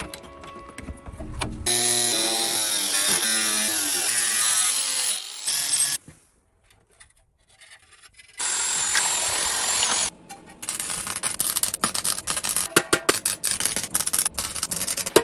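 Workshop power tool running in two stretches with a short silence between, then a run of irregular sharp knocks and scrapes.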